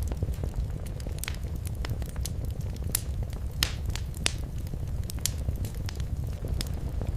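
Wood fire crackling and popping at irregular intervals, with sharp snaps and a few louder pops near the middle, over a steady low rumble of the flames.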